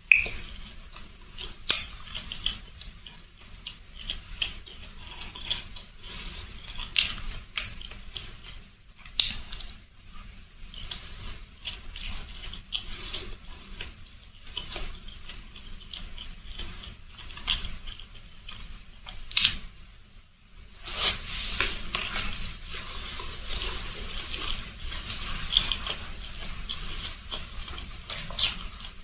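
Close-up eating sounds of rice-vermicelli soup: wet chewing and slurping, with scattered sharp clicks and a denser, louder stretch of slurping about two-thirds of the way through.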